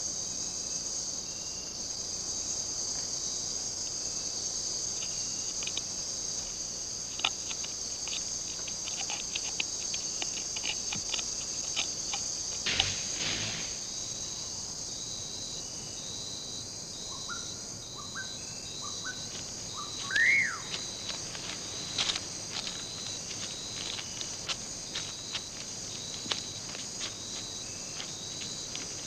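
Rainforest insect chorus: a steady, high, continuous buzz with scattered sharp clicks. A little past the middle, a short run of rising chirps ends in one louder upward-sweeping call.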